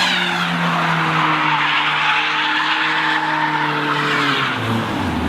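BMW 316i E36's four-cylinder engine held at high revs while the tyres skid and hiss in a drift. The revs sag slowly, then drop sharply near the end.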